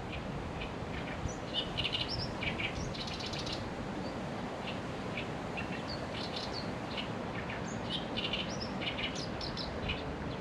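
Small birds chirping and twittering in quick high bursts, busiest about two seconds in and again in the second half, over a steady low background noise.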